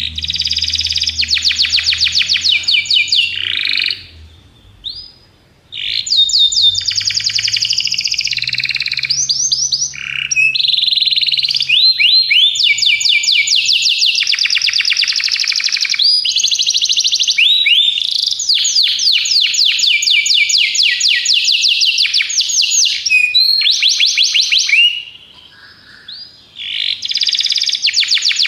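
Domestic canary singing: long, rapid trilled phrases of high chirping notes, broken by short pauses about four seconds in and near the end. This is a master canary song used to train young canaries to sing.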